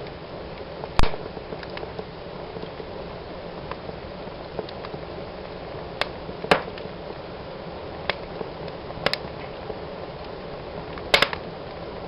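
Fire burning in a fireplace: a steady low rush of flames with irregular sharp crackles and pops, the loudest pop about a second in and a quick double pop near the end.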